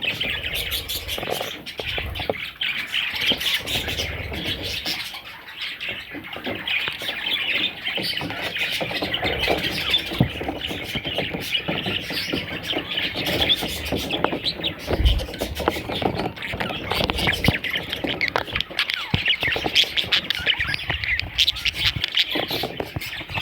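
Budgerigars chattering and squawking continuously, with many overlapping short calls.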